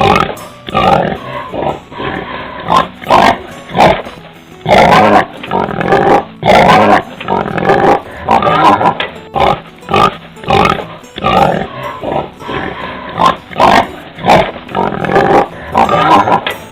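Domestic pig calling in a rapid series of short, loud calls.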